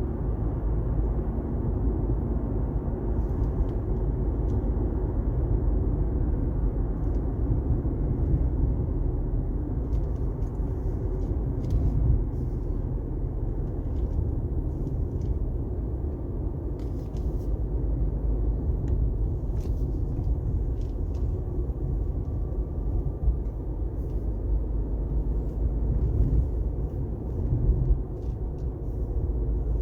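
Steady low rumble of a car driving on a wet highway, with engine and tyre noise and faint scattered ticks.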